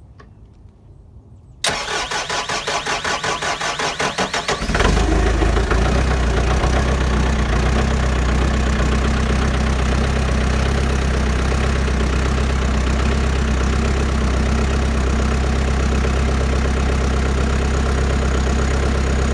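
Bobcat T250 skid-steer's diesel engine cold-started in freezing weather: the starter cranks in rhythmic pulses for about three seconds, the engine catches near five seconds in, and it settles into a steady idle.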